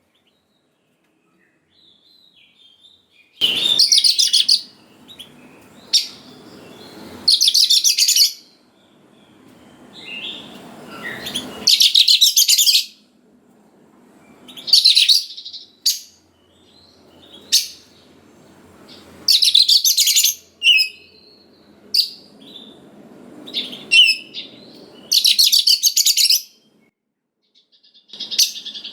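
Oriental magpie-robin (kacer) singing: loud bursts of rapid, buzzy high notes about a second long, repeated every few seconds with short chirps between them. The song starts about three seconds in.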